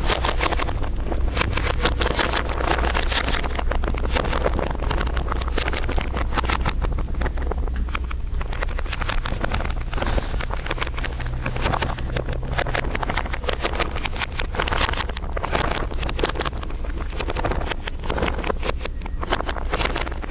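Several layers of crinkling, dense crackles that swell and ease in waves, over a steady low hum.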